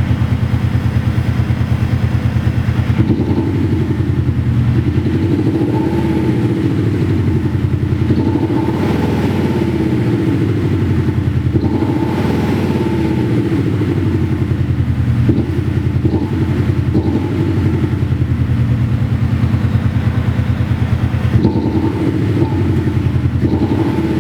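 Mercedes-Benz C200d diesel with an aftermarket Xhaust sound booster playing a synthetic sporty exhaust note. It idles steadily, is revved up and back down four or five times in a row, then settles back to idle.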